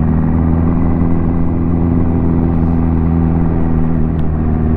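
Ducati motorcycle engine running at a steady, even pitch while the bike rides along.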